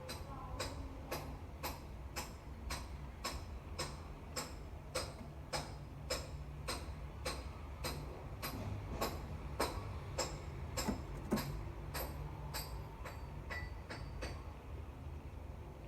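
Sharp, regular clicks, about two a second, that stop about two seconds before the end, over a steady low hum.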